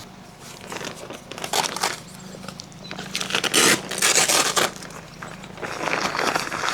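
Rustling and crinkling handling noise in irregular bursts, loudest between about three and five seconds in.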